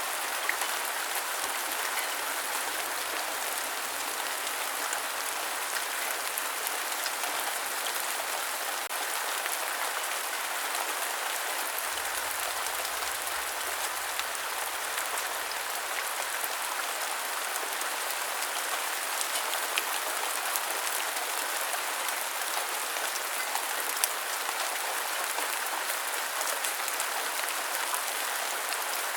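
Steady rain falling, an even hiss with scattered drop ticks and a few louder single drops.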